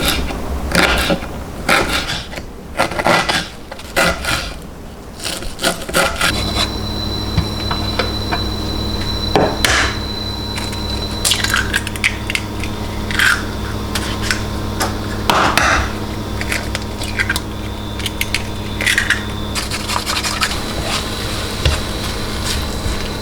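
Kitchen utensils scraping and knocking, then about six seconds in a kitchen appliance switches on with a steady electric hum and whine that keeps running under further scrapes.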